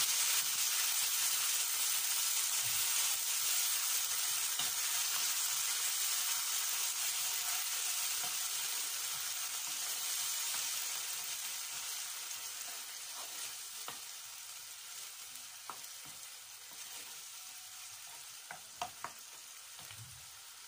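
Sliced onions and tomato puree sizzling in a non-stick wok while being stirred with a wooden spoon. The sizzle slowly dies down, and a few light knocks come near the end.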